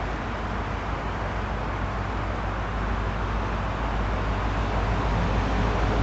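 Rumble of approaching Union Pacific diesel locomotives pulling a welded rail work train, a steady low engine hum under a wash of noise that grows slowly louder as the train nears.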